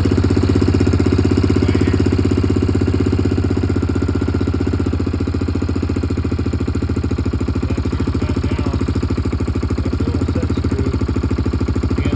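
A 1998 Yamaha Grizzly 600 ATV's single-cylinder four-stroke engine running steadily at a raised idle, easing off slightly about four seconds in.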